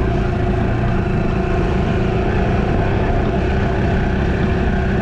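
Dirt bike engine running at a steady pitch.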